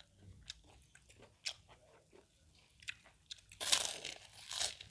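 Crunchy food being bitten and chewed close to the microphone: small wet mouth clicks at first, then loud crisp crunches starting about three and a half seconds in.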